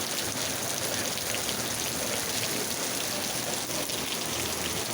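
Steady rain falling, its drops pattering on surfaces.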